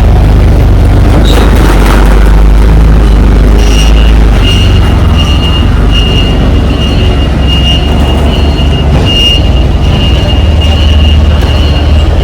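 Semi truck's engine running with a loud, steady low hum. About four seconds in, a thin, steady high-pitched tone joins it and keeps on.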